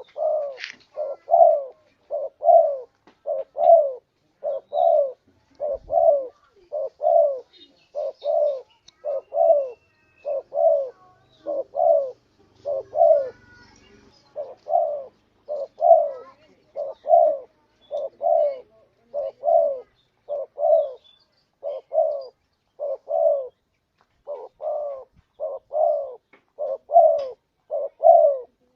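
Spotted dove (tekukur) cooing over and over: low, mellow notes in close pairs, repeating about once a second. This is a lure call for attracting wild doves.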